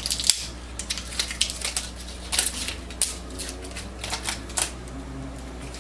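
Taped-together inkjet cartridge packs being handled: irregular clicks and plastic crackles over a steady low hum.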